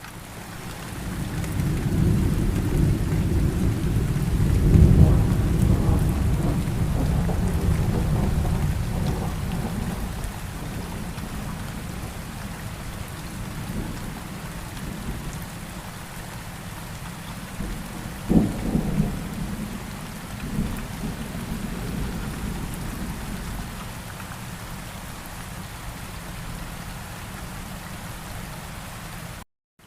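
Steady rain falling, with a long roll of thunder that builds over the first few seconds and slowly fades away. Later a shorter, sharper thunderclap follows, with a smaller rumble just after it.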